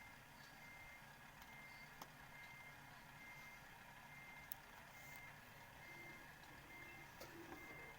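Faint reversing beeper: a single high tone pulsing steadily about once every 0.8 seconds, about ten beeps, over a low vehicle rumble.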